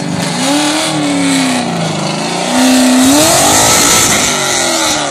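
Nissan 240SX (S14) drift car's engine revving up and down as it drifts. About two and a half seconds in, a loud hiss of sliding tyres joins it for a couple of seconds.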